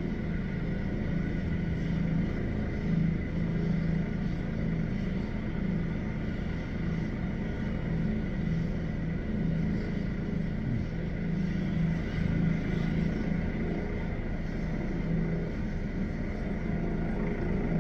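Medical helicopter running on its landing pad, engine spooled up for take-off: a steady rotor thrum with a constant high whine over it.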